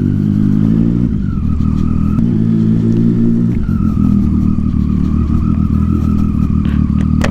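Triumph Street Triple 675's inline-three engine running through an aftermarket Yoshimura exhaust while riding. Its note steps up and down a few times in the first few seconds, then holds steady.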